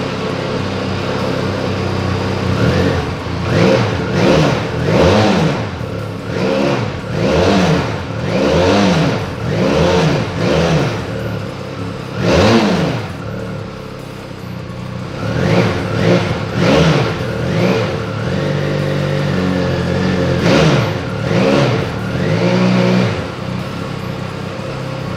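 Benelli Leoncino 500 motorcycle's 500 cc parallel-twin engine idling and being revved with repeated quick throttle blips, about one a second for the first half, a short spell of idle, then a few more blips before it settles back to idle.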